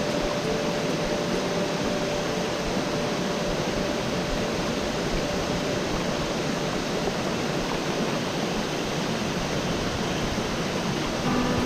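Steady rushing of a fast, full mountain stream close by. Background music comes in just before the end.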